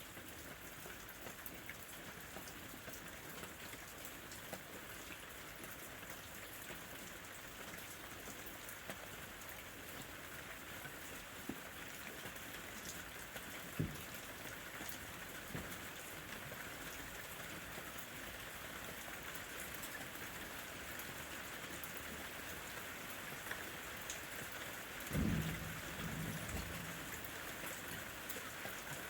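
Steady rain falling on a lemon tree, with scattered drop ticks and one sharp drip about halfway through. A brief low rumble, likely distant thunder, about 25 s in.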